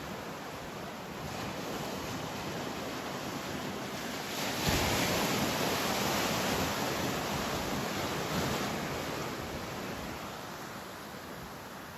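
Ocean surf breaking and washing in, with wind on the microphone; a sudden louder surge comes about five seconds in and eases off over the next few seconds.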